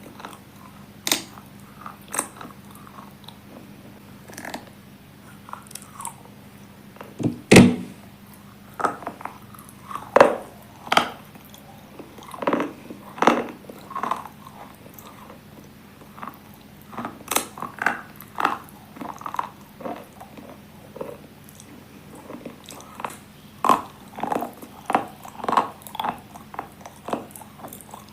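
A person biting and chewing crunchy slate pieces. The crunches come irregularly, a second or so apart, with the loudest bite about seven and a half seconds in.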